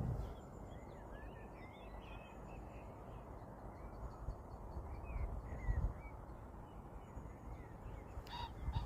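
Birds calling: many short, faint chirps scattered throughout over a steady low rumble, with one louder call near the end.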